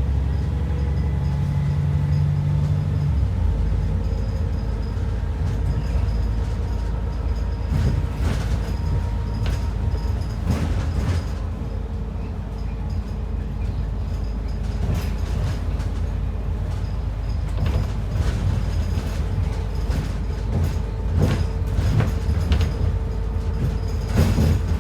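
Inside an ADL Enviro 400 double-decker bus on the move: a steady low engine and road rumble. The engine note changes about three seconds in. Frequent knocks and rattles come from the bus body and fittings over the road surface.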